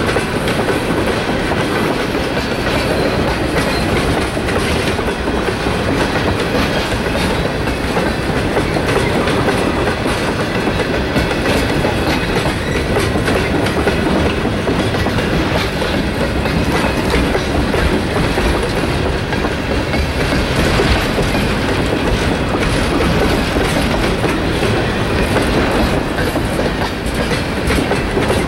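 Freight train of railroad tank cars rolling past at close range: steel wheels on the rails make a steady running noise laced with frequent clicks.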